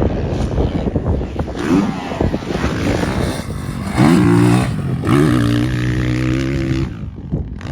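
Dirt bike engine revving hard: its pitch sweeps up about two, four and five seconds in and then holds steady, easing off near the end, over a constant rushing noise.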